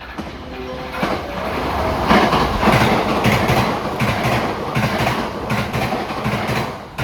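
Train running past on the tracks, its wheels clattering over the rail joints in quick uneven clusters. The noise builds over the first two seconds and stays loud.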